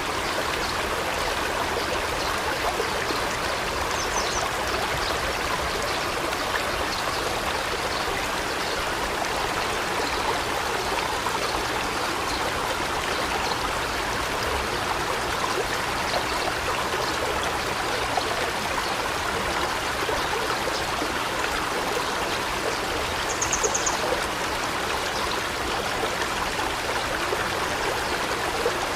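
Steady rush of forest water with no break or change in level. Two brief high bird chirps cut through it, one about four seconds in and one near the end.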